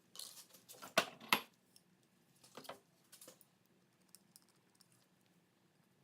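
Small hard objects clattering and clicking as they are handled and set down, with two sharp knocks about a second in and a few lighter clicks a little later.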